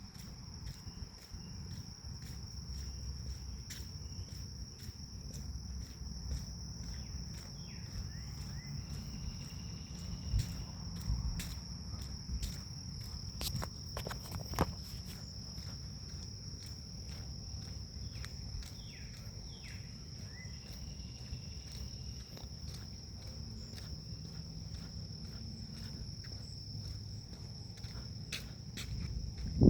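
Grass insects trilling steadily, one continuous high note, over the footsteps of someone walking a forest path and a low rumble of wind on the microphone.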